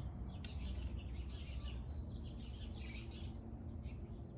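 Birds chirping repeatedly, faint, over a low steady hum.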